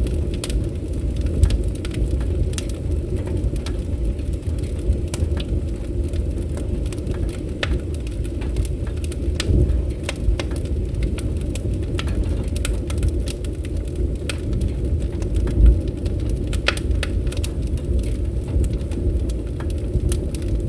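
Wood campfire burning, with frequent irregular crackles and pops over a steady low rumble.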